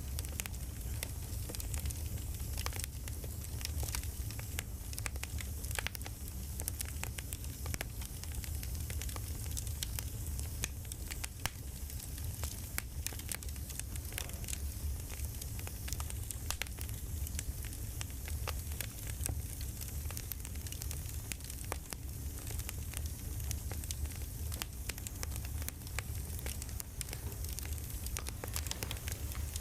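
Crackling campfire: a steady low rumble with many small, irregular pops and snaps.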